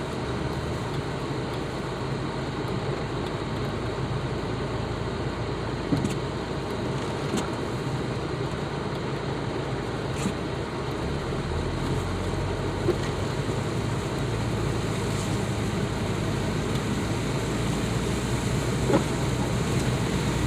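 Two-wheel-drive car driving, with a steady engine and road rumble heard from inside the cabin. A few faint knocks come through now and then.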